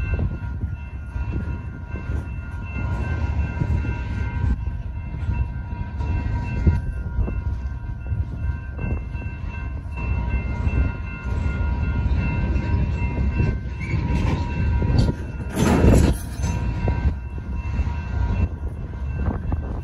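Freight cars of a BNSF manifest train rolling through a grade crossing: a steady rumble and clatter of wheels on the rails, with the crossing signal bells ringing over it. A brief, louder burst of noise comes about three-quarters of the way in.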